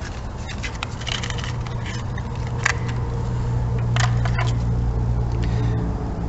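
Light clicks and scrapes of a worn spark plug being handled, over a steady low hum that swells a little partway through.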